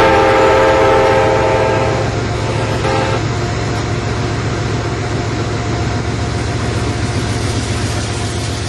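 Train horn sounding a chord, a long blast of about two seconds then a short one about three seconds in, followed by the steady rumble of the train running past, fading near the end.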